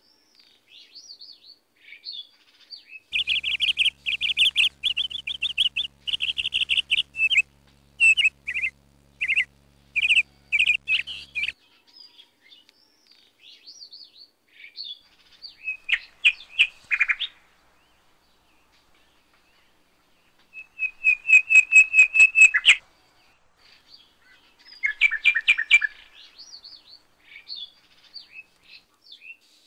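Small birds chirping and twittering, with loud runs of rapid repeated notes. The loudest runs come about three to eleven seconds in and again around twenty-two seconds. A faint low hum sits under the first loud stretch.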